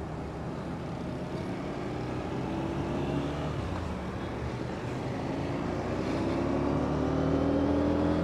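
Vehicle engine pulling under way, its pitch rising twice as it accelerates, over steady road and wind noise.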